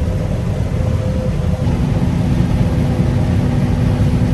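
Combine harvester running steadily while harvesting corn: a loud low rumble with a steady machine hum, and a lower hum that comes in about one and a half seconds in.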